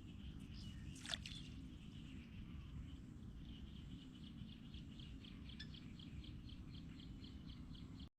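A small animal calling outdoors in a steady series of short high chirps, about four a second, over a low rumble, with a single sharp click about a second in.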